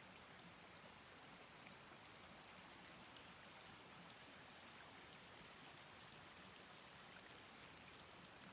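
Faint, steady rush of a forest stream, an even wash of running water with a few tiny droplet ticks.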